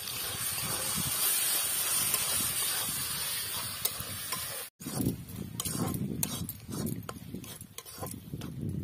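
Tomato and mashed brinjal masala sizzling in a metal kadai over a wood fire, a steady hiss. After a brief cut about halfway, a metal spatula stirs and scrapes the masala around the pan with uneven low thumps and clicks.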